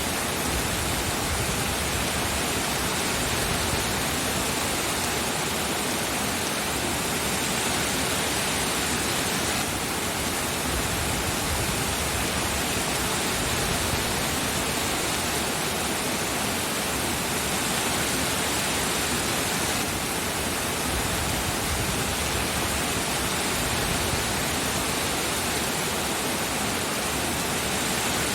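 Steady heavy rain, an even hiss with no distinct drops or thunder.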